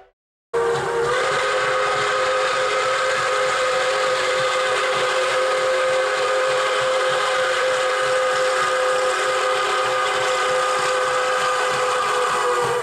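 Steam locomotive whistle sound effect from a Lionel LionChief O-gauge train, blown in one long, steady multi-tone blast over a hiss of steam. It starts about half a second in and holds for roughly twelve seconds.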